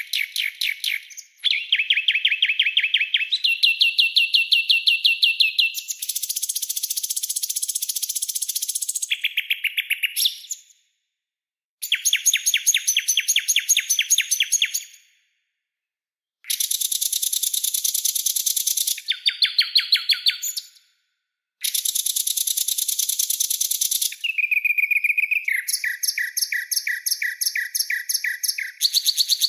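Songbird tutor recording: a string of rapid trill phrases, each a fast run of sharp repeated notes lasting one to three seconds. The pitch shifts from phrase to phrase, and the string breaks off three times for a second or so of silence.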